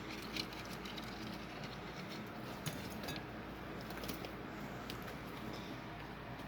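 Eating sounds: a handful of small, sharp chewing clicks at irregular intervals over a steady low hum.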